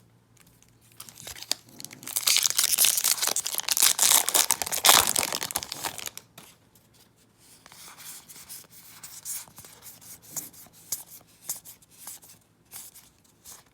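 Foil wrapper of a Magic: The Gathering booster pack being torn open and crinkled for a few seconds, followed by quieter flicks and rustles of the cards being handled.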